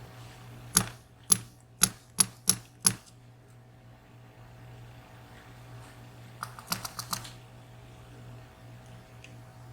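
Sharp taps on a VSR dimple lock cylinder, knocking loose pins out during disassembly: six quick taps in about two seconds, then a softer cluster of clicks about six and a half seconds in.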